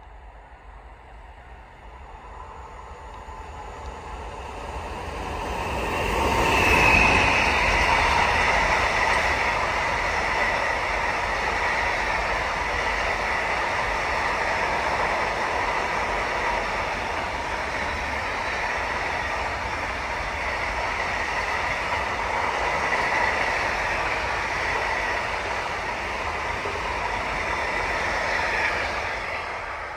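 Train running past on the line: it builds up over the first several seconds, then a long steady rolling of wheels on rails for over twenty seconds, beginning to fade at the very end.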